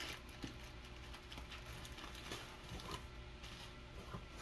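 Packaging being handled as a box is opened: scattered small crinkles, scrapes and taps of cardboard and wrapping.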